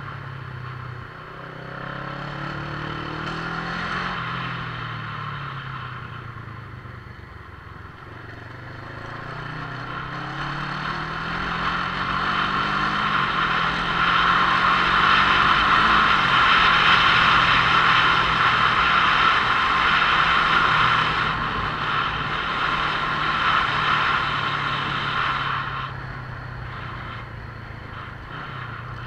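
Motorcycle engine running under way, its pitch climbing and then dropping at each gear change, under a rushing noise that swells loudest in the middle.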